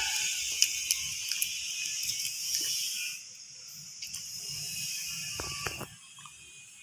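Pet lovebirds chattering in a high register, with small clicks and taps; it gets quieter after about three seconds.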